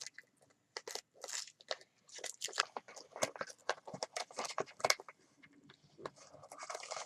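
Wrapping paper being handled and peeled from its tape, with irregular crinkling, crackling and a few short tearing sounds.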